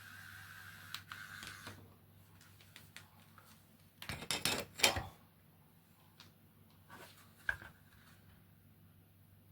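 A 3D pen's small extruder motor whirring with a thin steady whine that stops about two seconds in, followed by scattered clicks and a short burst of handling clatter and knocks about four to five seconds in, then a couple of light knocks.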